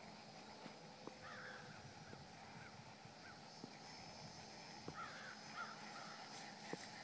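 Faint outdoor ambience with a bird calling in short curved calls, a cluster about a second in and another around five seconds in, and a few faint knocks scattered through.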